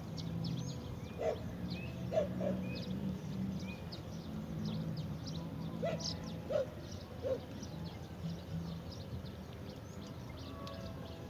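Birds chirping in many short, high notes, with a few short lower-pitched animal calls and a steady low hum underneath.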